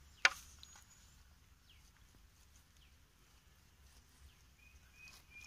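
Quiet rural outdoor ambience with faint bird calls, ending in a run of short, high, evenly pitched notes. A single sharp click about a quarter second in is the loudest sound.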